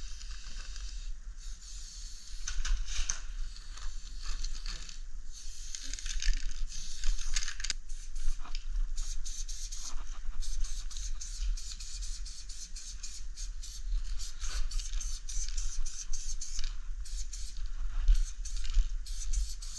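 Aerosol spray paint can hissing in repeated bursts of varying length, with short breaks between strokes, over a low steady hum.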